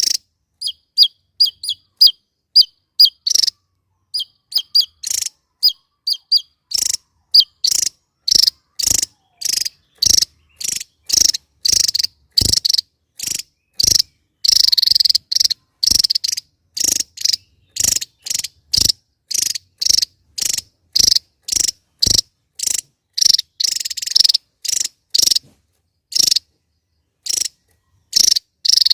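Javan tesia calling in a long series of short, sharp notes about twice a second: thin high notes at first, then from about seven seconds in harsher, rasping notes.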